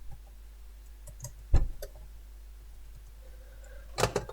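A few scattered, separate clicks at a computer as the quiz answers are entered. The loudest comes about a second and a half in, with a quick cluster near the end.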